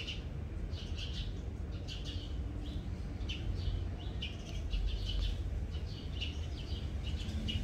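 Small birds chirping: short, high chirps repeating irregularly, a few each second, over a steady low rumble.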